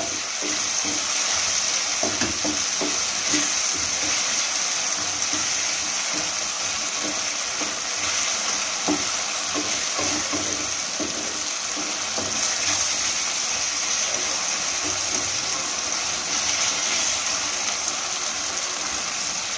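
Chopped onions and tomatoes sizzling steadily in hot oil in a frying pan, with a wooden spatula stirring and scraping now and then. They are frying down until the oil separates from the mixture.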